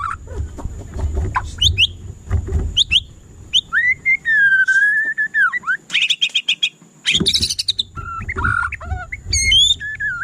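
White-rumped shama (murai batu) singing a varied song: clear whistled phrases and glides, one long arching whistle midway, then fast rattling trills. A low background rumble runs under it and drops out for a few seconds in the middle.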